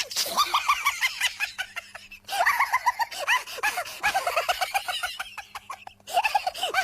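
Rapid runs of short, falling bird-like calls, several a second, broken by abrupt cuts about two seconds in and again near the end.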